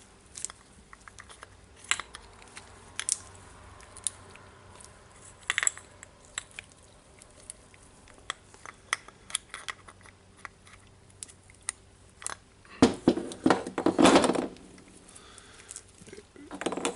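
Small greased metal parts of a rotary hammer's piston assembly being handled and fitted by hand: scattered light clicks and taps, then a louder stretch of scraping and clattering about thirteen seconds in.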